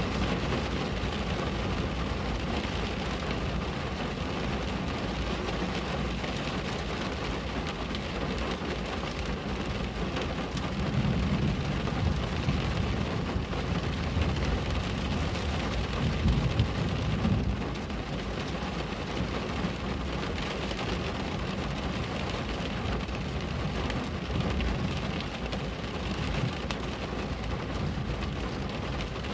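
Steady rain on a window, an even hiss, with two low rumbles swelling about eleven and sixteen seconds in.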